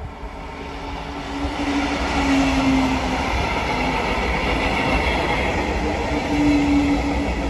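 Double-deck regional push-pull train running past on the near track. Its wheel and rolling noise grows louder over the first two seconds as the coaches draw level, then stays loud. A low steady hum comes and goes on top of it.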